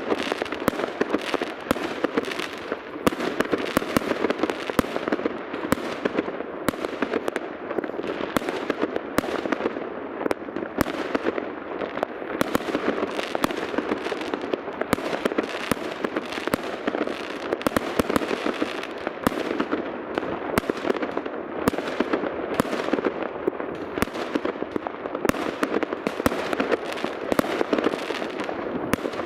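Fireworks going off in several places at once: a continuous barrage of overlapping bangs and crackles with no pause.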